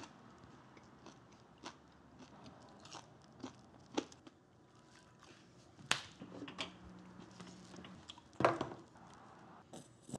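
A person chewing crispy fried popcorn chicken: irregular crunching with several louder crunches.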